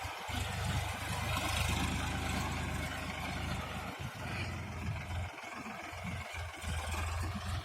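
Diesel tractor engine running steadily. It eases off briefly about four seconds in and again for a stretch past the middle, then picks up near the end.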